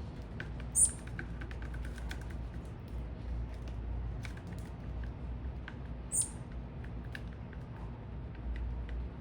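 Small birds at a feeder: two sharp, very high chirps, one about a second in and one about six seconds in, among scattered soft ticks and clicks.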